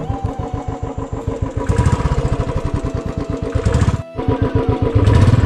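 Motorcycle engine running under way, its firing pulses steady. The sound drops out briefly about four seconds in, then comes back louder.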